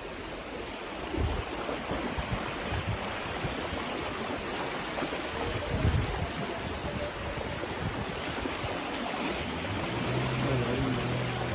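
Steady rushing of water from heavy rain and the swollen river, with a few low thumps. A low, steady hum joins it near the end.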